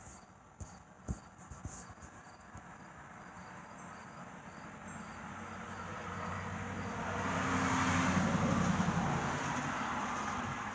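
A train's low engine drone and rumble building up to a peak about eight seconds in, then easing slightly. Crickets chirp in a steady pulse behind it.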